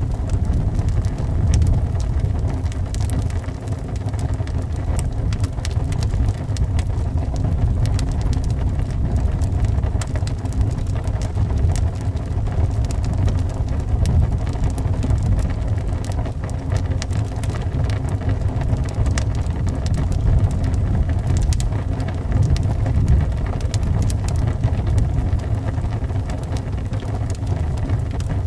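Crackling wood fire with many small, irregular pops and snaps, over a steady low rumble of wind blowing around the house.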